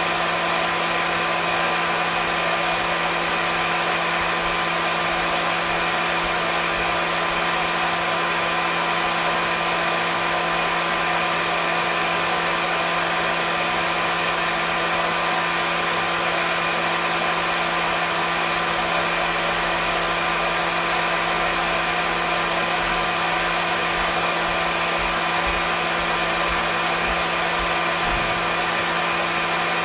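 Hair dryer running continuously: a steady, unchanging airy hiss with a constant motor hum.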